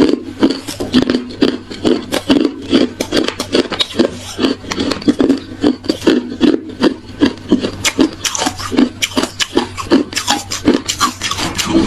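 Hard ice being crunched between the teeth close to the microphone: a fast, unbroken run of loud crunches, about three or four a second.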